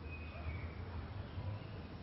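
Quiet room tone: a low steady hum, with a faint thin high tone that drifts slightly downward early on.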